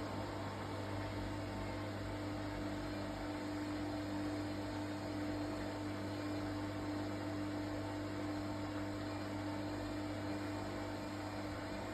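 Washing machine running with a steady hum and several constant tones over an even whir.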